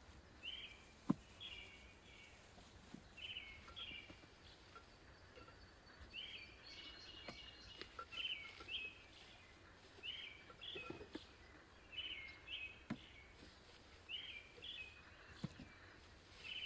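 A bird calling over and over, each call a quick pair of short down-slurred notes, repeating about every two seconds over a faint outdoor background. A few soft taps are scattered through it, with one sharp click about a second in.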